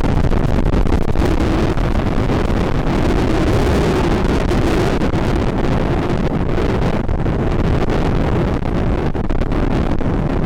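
Strong wind buffeting a microphone despite its furry windshield: a loud, unbroken rush that is heaviest at the low end.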